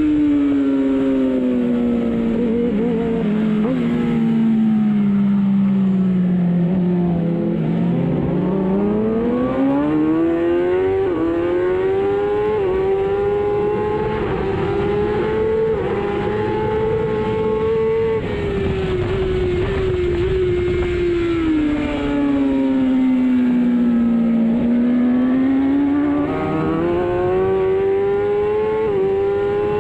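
Onboard sound of a racing superbike engine: the revs drop away for several seconds as the bike slows for a corner, then climb hard with a quick step at each upshift. This happens twice, with a short high-revving run between.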